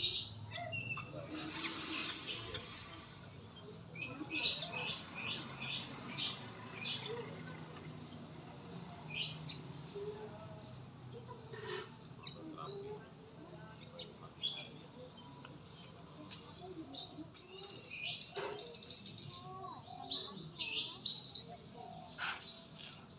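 Songbird song and calls: bursts of quick, high chirps and short whistled notes, some in fast repeated runs, with a steady low hum underneath.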